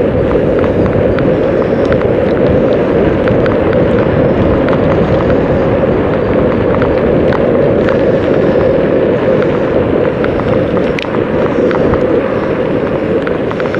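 Wind rushing over a bike-mounted microphone while cycling along a road, a loud steady rumble with many small scattered clicks and ticks.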